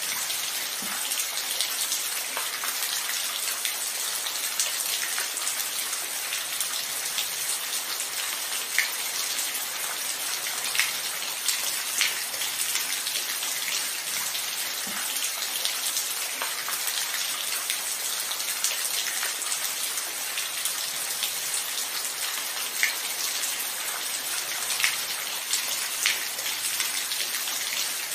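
Steady rain falling, a constant hiss with scattered louder individual drops ticking here and there.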